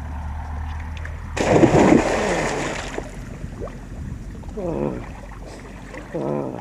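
A loud splash of water about a second in, lasting a second or two, followed by a few short voice calls.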